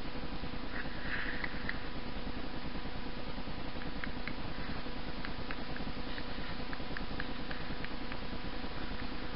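Riding noise from a bicycle picked up by an action camera: a steady rumble of tyres and wind, with a faint electronic hum and scattered light rattling clicks through the middle.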